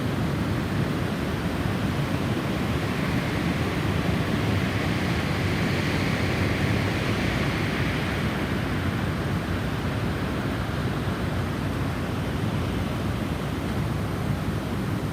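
Storm wind blowing steadily, swelling into a gust around the middle and easing off again.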